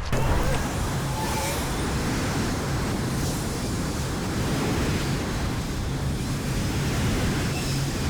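Steady rush of wind over the microphone of a moving e-bike, mixed with road traffic noise. The rush sets in abruptly at the start.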